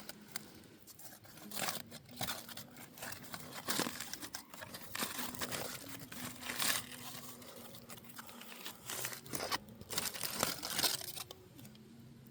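Packaging being handled: irregular crinkling and tearing rustles, coming in bunches with short pauses between.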